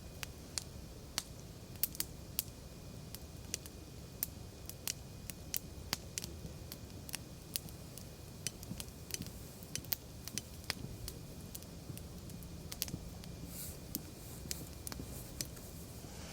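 Wood fire crackling: many irregular sharp pops and snaps over a low, steady rush of flame, with a short hiss near the end.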